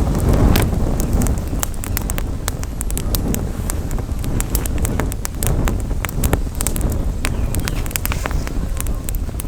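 Campfire crackling, with many sharp irregular pops and snaps, over a low rumble of wind on the microphone.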